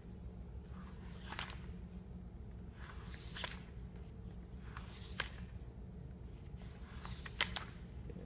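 A 3D-printed page turner working on book pages: a few soft paper rustles and light clicks, over a steady low hum.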